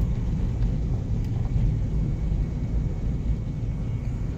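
Four-wheel-drive vehicle driving, heard from inside the cabin: a steady low rumble of engine and road noise.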